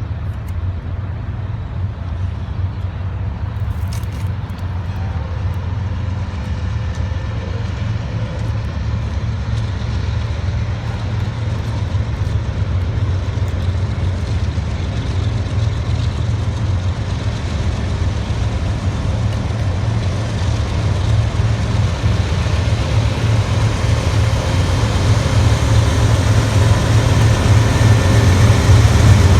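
Low, steady rumble of a heavy vehicle that grows gradually louder as it approaches.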